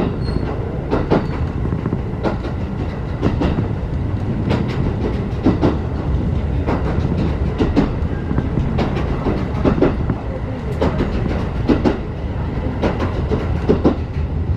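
Ride noise inside a 35-series passenger coach under way: a steady deep rumble of wheels on rail, with sharp clicks, often in quick pairs, about once a second as the bogies pass over rail joints.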